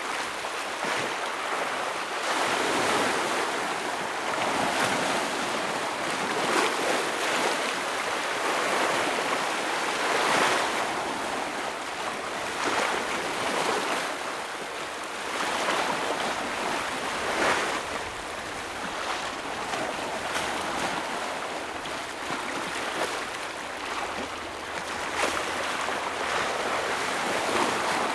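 Ocean waves breaking and washing against rocks on a rocky shore: a continuous rush of surf that swells with each wave every few seconds.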